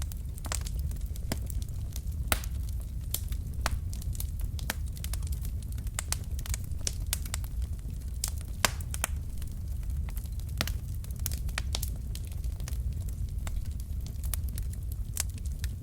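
Wood fire burning in a fireplace: irregular sharp crackles and pops from the burning logs over a steady low rumble of flame, with a couple of louder pops.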